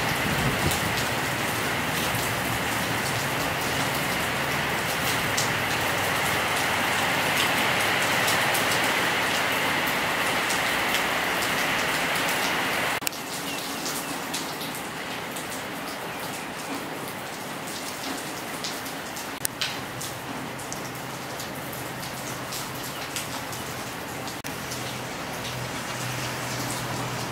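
Steady rain falling, with scattered individual drops ticking through it. About halfway through the sound drops abruptly to a quieter, lighter patter.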